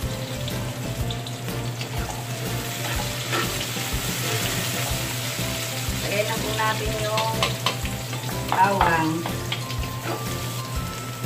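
Sliced onions sizzling in hot oil in an aluminium wok, stirred with a wooden spatula, with minced garlic tipped in partway through and frying along with them.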